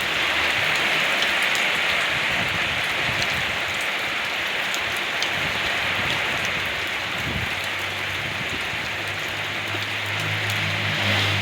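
Steady rain falling, a constant even hiss with scattered drop ticks on top. A low hum comes in about two thirds of the way through and grows a little louder near the end.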